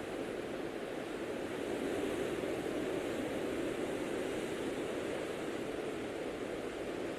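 Blizzard wind blowing steadily: a low, even rushing noise that swells slightly a couple of seconds in.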